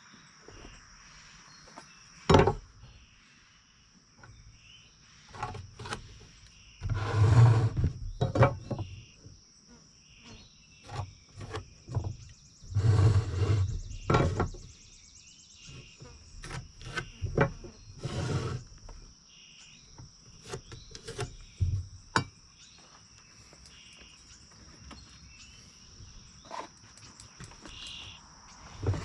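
Insects buzzing steadily outdoors. Over them come irregular sharp knocks and two longer stretches of clatter and rustling from lumber being handled and fitted, about a quarter and half way through.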